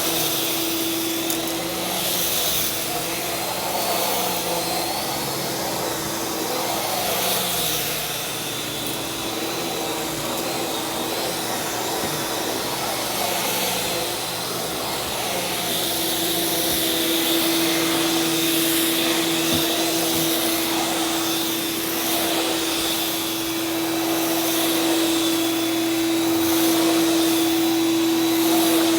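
Oreck upright vacuum cleaner running steadily over carpet, its motor hum and high whine rising and falling gently in level.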